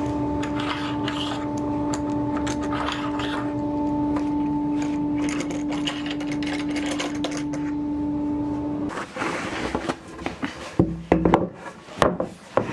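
A small motor running at a steady speed with an even hum, which stops about nine seconds in, followed by a few knocks and clicks of handling.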